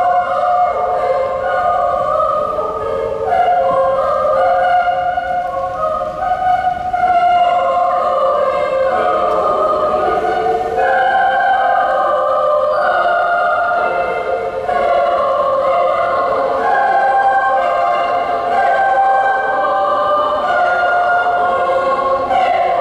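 Junior high school choir singing a Papuan folk song from Indonesia, holding long notes in several-part harmony.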